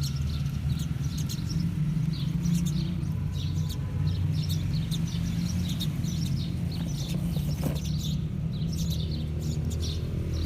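Birds chirping repeatedly over a steady low hum.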